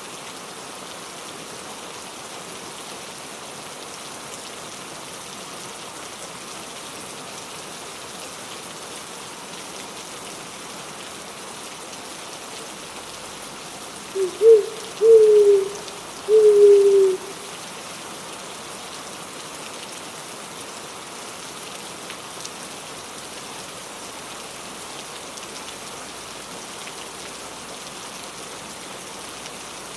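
Steady rain falling throughout. About halfway through, an owl hoots a short series of low notes, the last one the longest at about a second, each dipping slightly in pitch.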